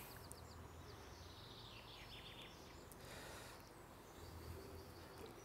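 Near silence with a few faint bird chirps in the background.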